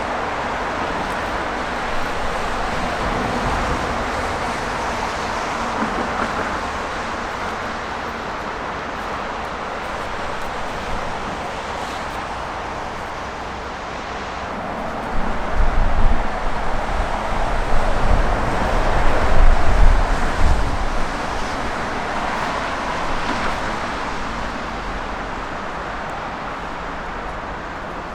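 Jet airliner engine noise, a steady rushing roar that swells and fades as the aircraft passes. For several seconds past the middle, heavy low rumbling gusts come in and it is at its loudest.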